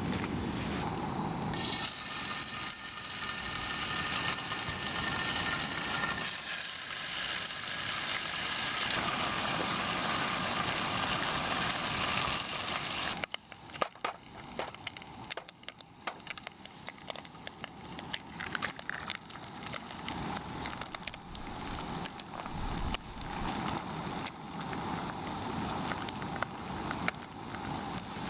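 A steady hiss for about the first half, then a wood campfire crackling with many small snaps and pops.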